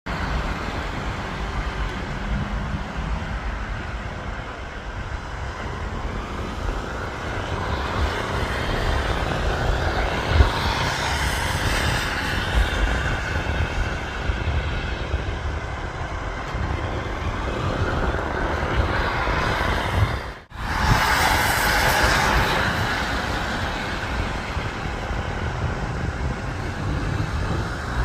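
Helicopter hovering overhead, its rotor and turbine running with a steady loud rumble that swells now and then, cut off for a split second about two-thirds of the way through.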